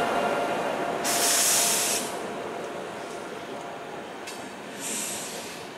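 LHB passenger coaches rolling past on the track, the rumble slowly fading, with a steady hum dying away in the first second. A loud burst of hissing comes about a second in and lasts about a second, and a shorter hiss comes near the end.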